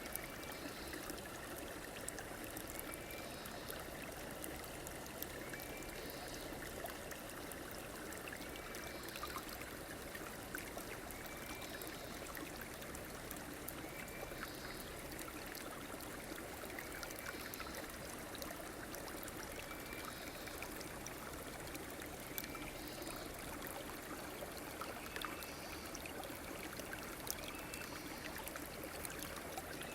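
River water flowing and trickling steadily, with a short high call repeating about every three seconds over it.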